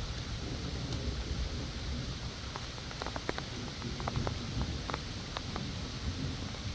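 Steady rain falling, with scattered sharp drops tapping on a surface, thickest in the middle, over a continuous low rumble.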